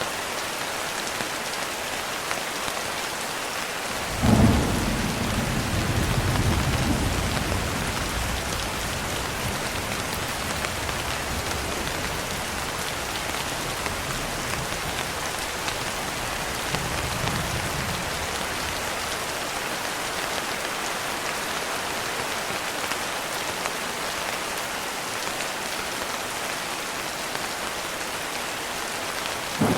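Steady rain pattering on a window, with a clap of thunder about four seconds in that rolls on for several seconds, and a fainter rumble of thunder near the middle.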